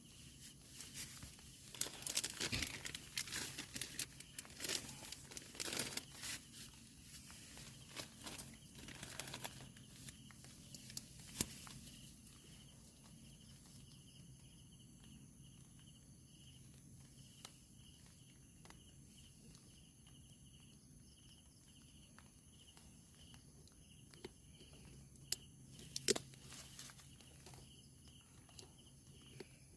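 Crinkling and rustling, like plastic or dry leaves being handled, for about the first ten seconds. After that it is nearly quiet except for a faint, steady, high-pitched insect trill and a couple of sharp clicks near the end.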